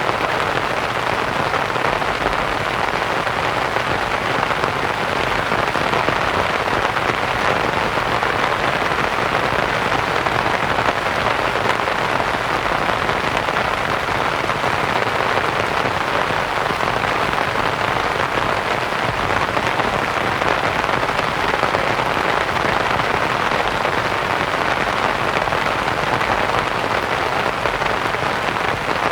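Steady rain falling on a canvas tent, mixed with soft white noise: an even, unbroken hiss of pattering drops.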